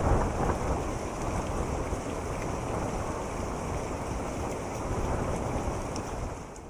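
Steady rain ambience, an even rushing noise with no music over it, fading out at the very end.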